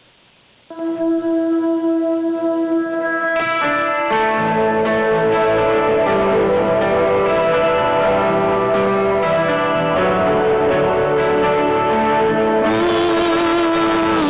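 Instrumental intro of a rock band song with guitar. A held chord starts about a second in, the full band with bass comes in after about three seconds, and a wavering lead line enters near the end.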